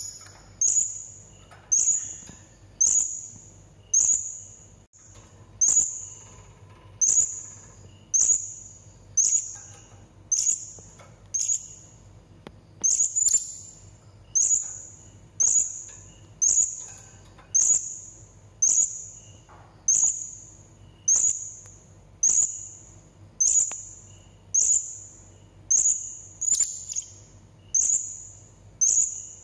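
Blue-crowned hanging parrot (serindit) giving a steady series of short, sharp, high-pitched calls, about one a second, the call used as a lure to set other serindit calling.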